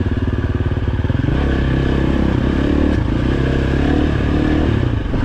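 Dirt bike engine running as it is ridden along a trail, its pitch wavering up and down slightly with the throttle.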